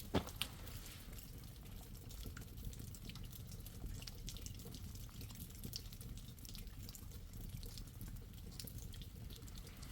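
Water dripping in scattered, irregular drops over a low steady rumble, with one sharp click just after the start.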